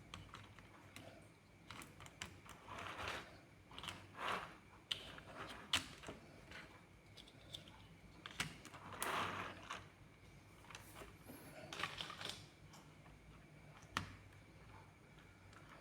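Plastic building bricks being handled and pressed together: scattered small clicks and brief rustling shuffles, with a few sharper snaps.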